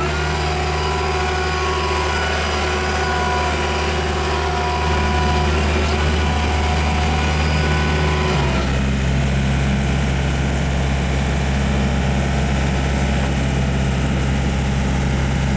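Volvo EW55B wheeled excavator's diesel engine running steadily, with a higher whine over it that drops away about eight seconds in, leaving a steadier engine note.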